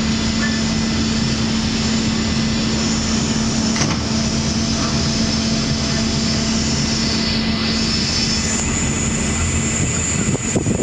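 Passenger catamaran ferry under way: a steady engine drone with a constant hum under a dense rushing noise. The hum fades out near the end.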